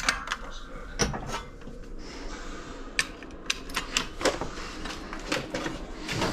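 Irregular clicks and light metallic knocks from the radiator and press being handled and adjusted during straightening, about a dozen separate strikes at uneven spacing.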